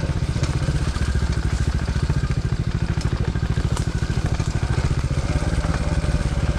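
Moto Pro DB14 110cc dirt bike's single-cylinder four-stroke engine running steadily at an even pace, without revving up or down.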